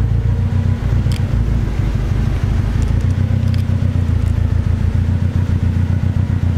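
Toyota AE86 Trueno's turbocharged four-cylinder engine idling steadily during a warm-up after sitting parked for over a month.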